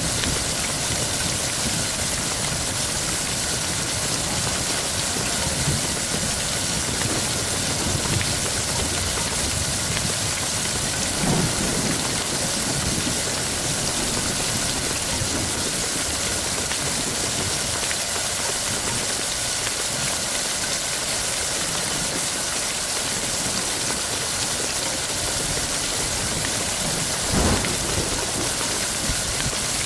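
Steady heavy rain with thunder rumbling low beneath it. Two brief louder thumps come about 11 seconds in and near the end.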